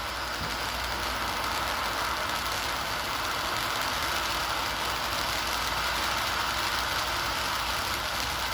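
Firework burning with a steady hiss.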